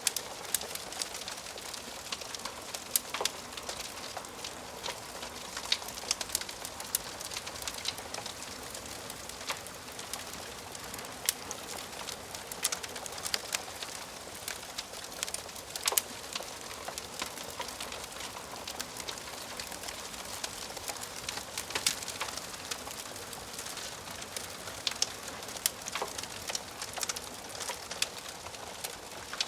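Wood fire crackling in a fireplace: frequent, irregular sharp pops and snaps over a steady soft hiss.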